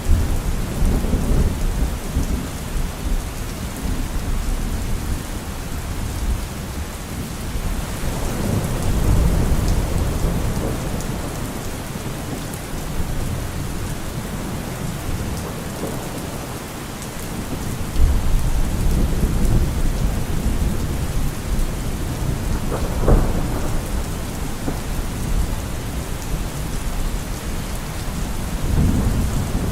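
Steady heavy rain with rolling thunder: low rumbles swell and fade several times, with a sharper crack about two-thirds of the way through.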